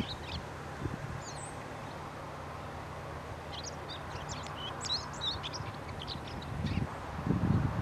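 Small birds chirping in many quick, short calls over a steady low hum. Near the end a louder low rumbling comes in.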